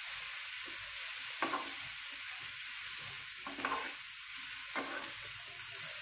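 Dried prawns and sliced onions sizzling steadily in hot oil in a frying pan as a spatula stirs them, with a few short scrapes of the spatula against the pan.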